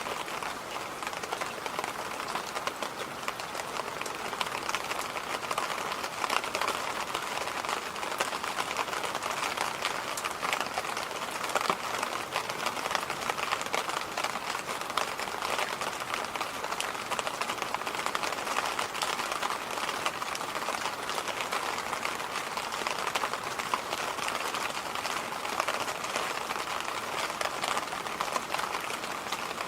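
Electric fan running steadily: an even rush of moving air with a fine, irregular crackle running through it.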